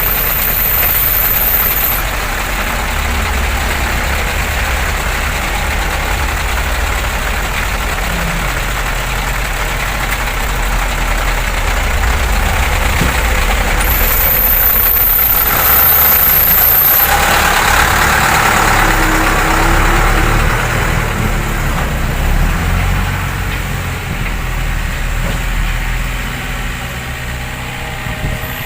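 Heavy diesel engines of the dump truck and earthmoving machine running continuously, a little louder around the middle.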